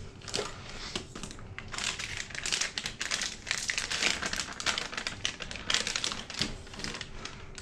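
Rapid clicks and rustling of plastic as a hard drive and its plastic drive bay are handled, dense through most of the stretch.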